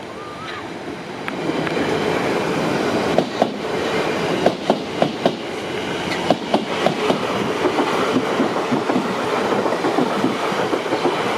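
Two passenger trains running side by side past a level crossing, a steady rail rumble that grows louder about a second and a half in. From about three seconds on, a run of sharp, irregular clicks sounds as the wheels pass over rail joints.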